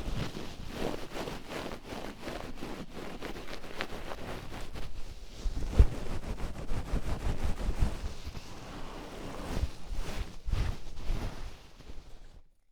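Oiled hands rubbing in slow, uneven massage strokes close to a 3Dio binaural microphone, with a few low bumps. The sound stops abruptly just before the end.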